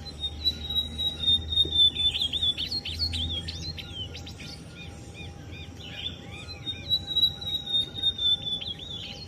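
Ultramarine grosbeak (azulão) singing two phrases of quick warbled notes, one starting about a second in and another near six seconds, with a thin steady high whistle running under each phrase.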